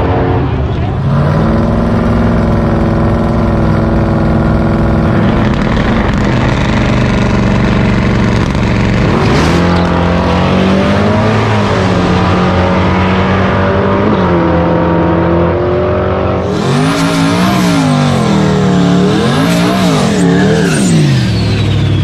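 Performance car engines at a drag strip running at a steady idle. In the second half they are blipped up and down, and for the last few seconds they are revved in repeated rising and falling sweeps.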